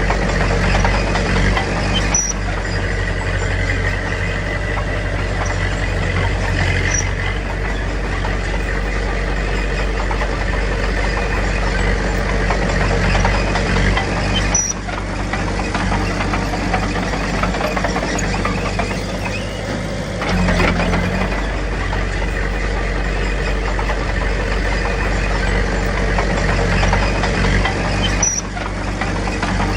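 Diesel engine of heavy earthmoving machinery running steadily. The sound breaks off briefly about halfway through and again near the end.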